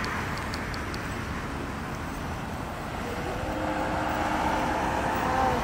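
Steady road and rail noise as a passenger train runs away down the track. Faint rapid ticking sounds near the start, and from about halfway through the train's horn sounds in the distance, one steady held chord that stops near the end.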